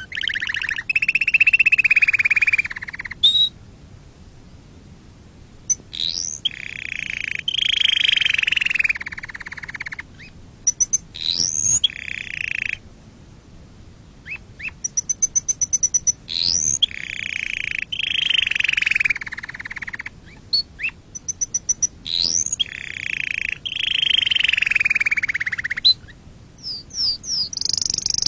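Domestic canary singing: phrases of fast rolling trills and sweeping whistled notes, each a few seconds long, with short pauses between them.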